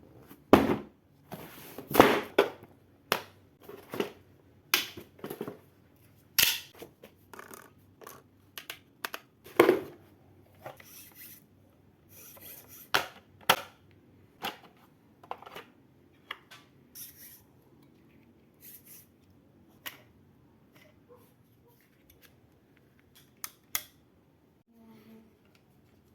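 Irregular clicks, taps and knocks, as of small hard objects being handled, coming thick in the first ten seconds and more sparsely after.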